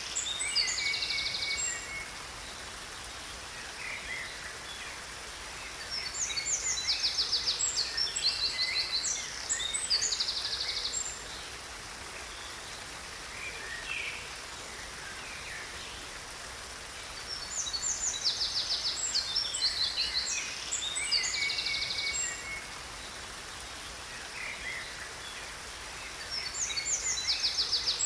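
Songbirds singing in bouts of rapid high chirps and trills, each bout lasting a few seconds with quieter gaps between, four times over. Beneath them runs a faint steady rush of falling water.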